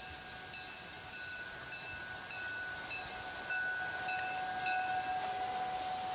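Railway level-crossing warning bell ringing in an even rhythm, a little under two strikes a second, over a steady tone that gets louder about halfway through.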